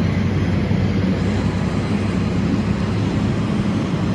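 Car-carrier freight wagons rolling past at a steady speed, a continuous low rumble of wheels on the rails.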